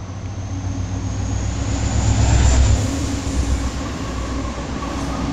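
Union Pacific diesel freight locomotives passing close by. Their engine rumble swells to its loudest about two and a half seconds in, then settles into a steady rumble as the train runs on, with a thin high whine above it.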